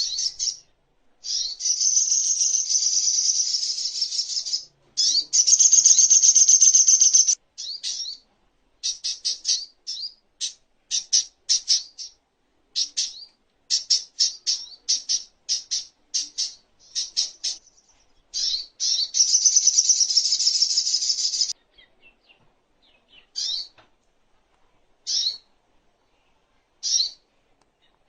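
Sogok ontong sunbird singing: high-pitched, rapid trilling phrases of a few seconds each, three of them, with runs of short sharp chirps between and only scattered single notes in the last few seconds.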